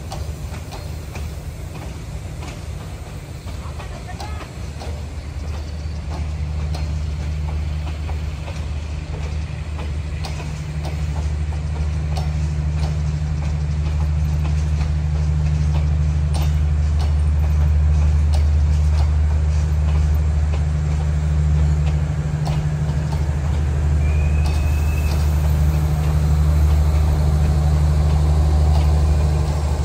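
Passenger train rolling slowly past: a low, steady drone grows louder through the first half, with scattered light clicks from the wheels and coaches and a brief rising squeal a few seconds before the end.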